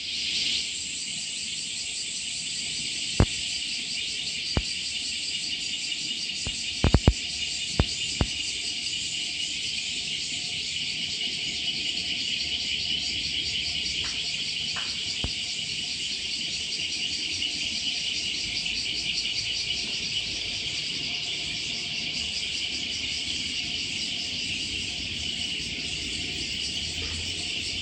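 A steady, high-pitched chorus of insects droning, over a faint murmur of flowing stream water. A few sharp clicks come in the first eight seconds or so, including a quick cluster of three about seven seconds in.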